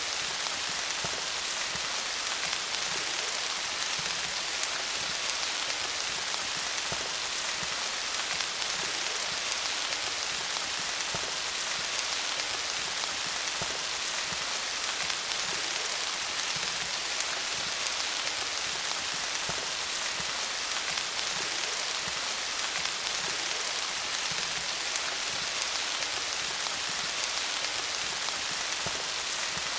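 Steady rain falling on leaves, a dense patter of many small drop ticks.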